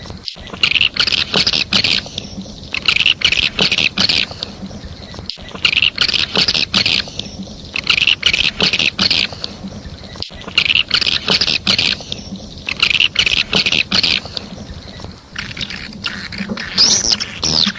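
Swiftlet calls used as a lure for swiftlet houses: bursts of rapid, high twittering chirps, each about a second long, repeating with short pauses. Near the end a longer call sweeps up and down in pitch.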